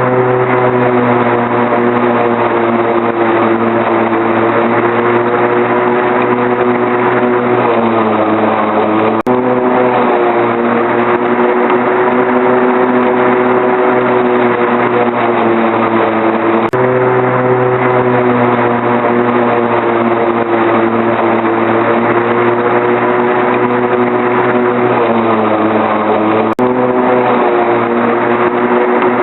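Lawnmower engine running steadily close up, its pitch sagging slightly a couple of times. The sound breaks off and jumps abruptly three times.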